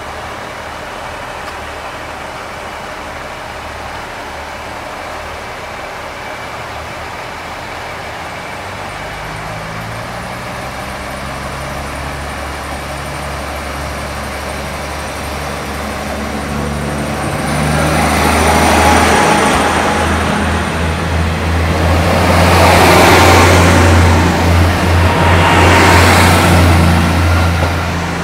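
Road vehicles passing on a wet road: tyre hiss swells and fades three times in the second half, over a low engine hum that builds gradually.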